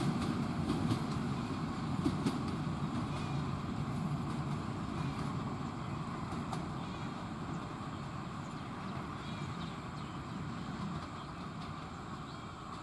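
Passenger train rolling along the track with a steady rumble and scattered clicks, slowly fading as it moves away.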